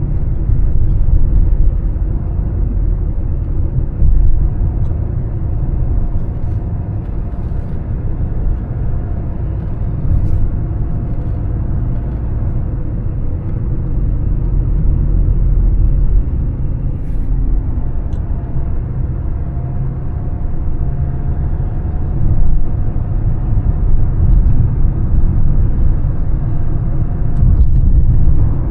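Mercedes-Benz E320 CDI on the move: its 3.2-litre straight-six turbodiesel running under way, with a steady low rumble of engine and tyres on the road.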